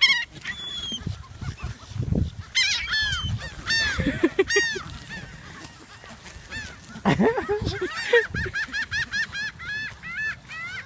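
Geese honking, scattered calls at first, then a quick run of honks, about four a second, in the second half.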